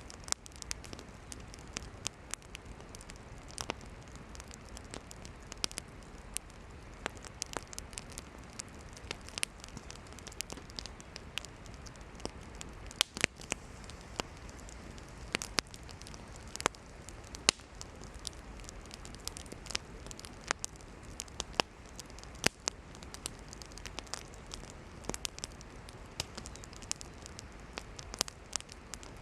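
Wood campfire burning: a steady low hiss with frequent irregular crackles and pops as the firewood burns, a few of them sharper and louder.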